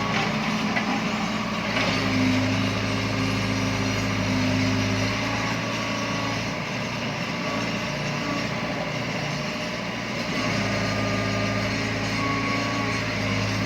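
Heavy construction machine's engine running steadily, its note easing off in the middle and picking up again near the end as the load changes.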